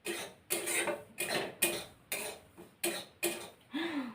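A woman coughing repeatedly: about ten short coughs in a row, two or so a second.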